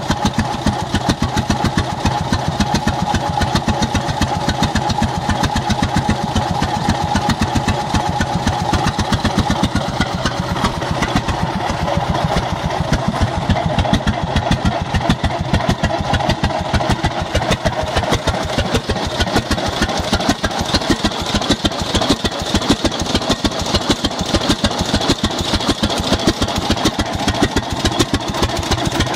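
The twin-cylinder engine of a 1916 International Harvester Titan 10-20 tractor, running steadily at idle with an even, rapid beat.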